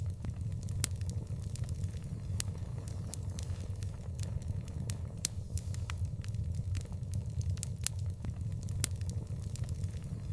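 Open fire crackling: sharp, irregular pops and snaps scattered over a steady low rumble of the burning flames.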